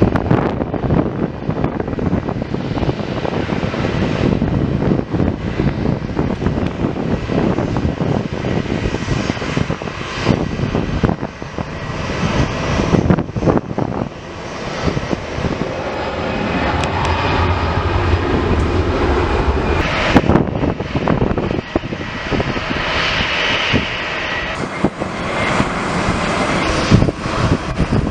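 Fixed-wing aircraft engines running loud and steady at an airport.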